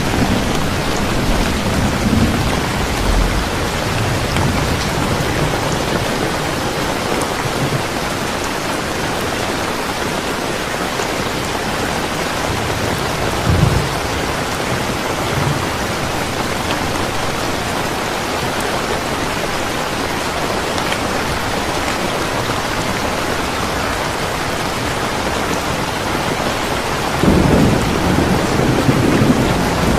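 Steady rain, with low rumbles of thunder at the start, a short one near the middle and a louder one near the end.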